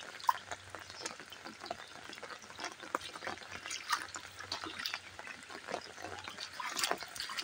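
Steady rain pattering on a wet concrete rooftop and into shallow standing water, with small splashes from bare feet stepping through it.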